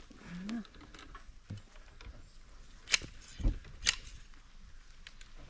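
Two sharp cracks about a second apart, with a dull thump between them, over a quiet background.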